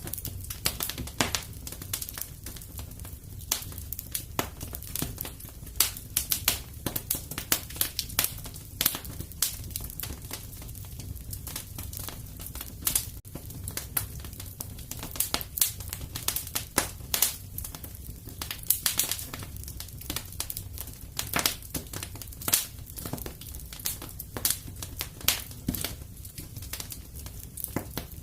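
Fireplace fire crackling, with many irregular snaps and pops over a steady low rumble.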